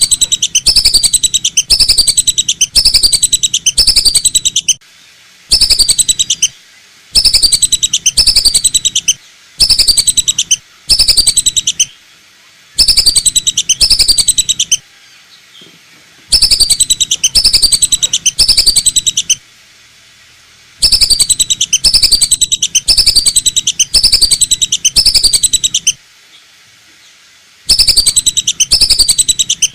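Lesser whistling duck calls played as a hunting lure: loud, high whistles, each falling in pitch, repeated about twice a second in bursts of a few seconds with short pauses between, a low buzz under each burst.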